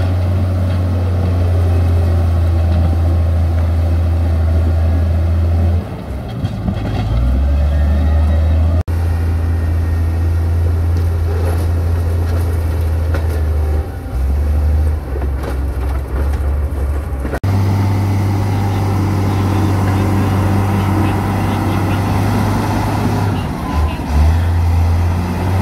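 Heavy diesel engine of earthmoving machinery running with a deep, steady drone. The sound changes abruptly twice, about a third and two-thirds of the way through, and wavers unevenly in between.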